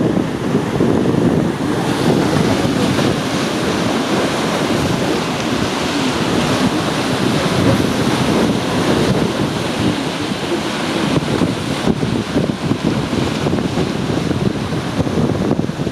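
Wind buffeting the microphone in a steady low rumble, over the wash of sea water in a harbour.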